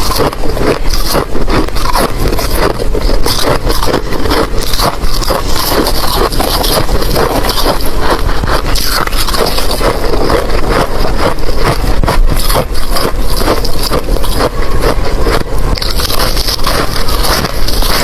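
Ice being chewed close to the microphone: dense, continuous crunching with rapid sharp cracks and no pauses.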